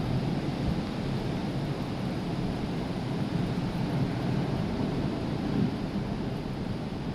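Rough, hurricane-churned sea surf: a steady low rushing noise with no breaks or distinct crashes.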